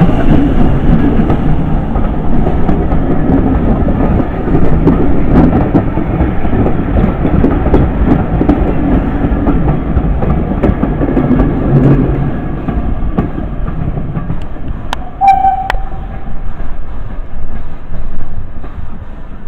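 A train on a heritage railway running by with a heavy low rumble and wheels clicking over the rail joints, easing off about twelve seconds in. A short, high tone sounds briefly about fifteen seconds in.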